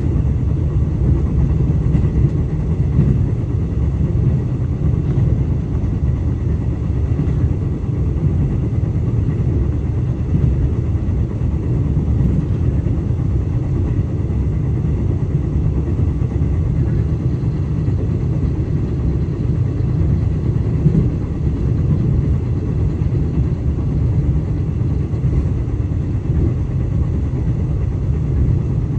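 Steady low rumble of a moving KTM electric train, heard from inside the carriage as it runs along the track.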